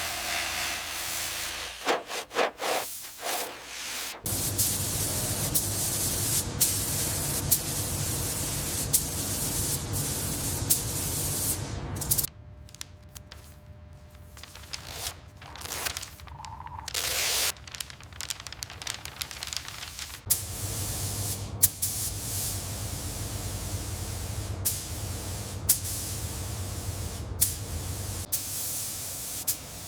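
Steady hissing spray over a low hum, in two long stretches of about eight seconds each, with a quieter gap of scattered clicks and knocks between them.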